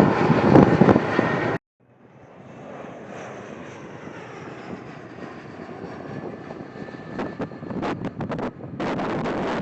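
Jet airliner engine noise in spliced clips. A loud rush cuts off abruptly about one and a half seconds in. After a moment of silence, a quieter passing jet fades in with a faint high whine slowly falling in pitch, and grows louder. Near the end there is another abrupt cut to loud engine noise.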